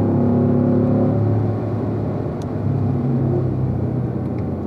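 Chevrolet Corvette's V8 heard from inside the cabin, running in fifth gear around 4,000 rpm at track speed. Its note falls slightly and grows quieter as the car slows.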